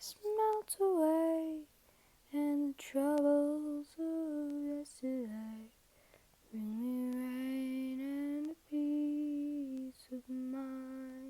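A woman singing unaccompanied, wordless held notes in a slow melody. The phrases are separated by short breaths, and a long low note closes the last phrase near the end.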